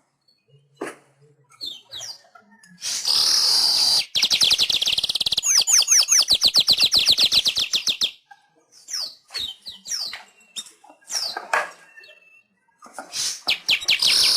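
Manyar (baya weaver) singing: a loud buzzy wheeze, then a fast dry rattle lasting several seconds, followed by scattered sharp chirps and another buzzy wheeze near the end.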